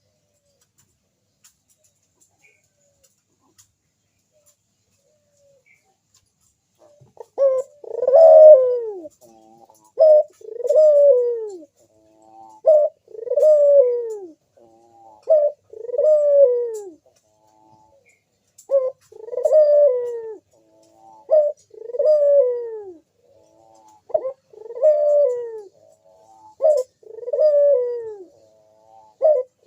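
Crossbred puter dove (Barbary dove type) cooing over and over from about seven seconds in, each coo a short note followed by a longer falling note, roughly every three seconds.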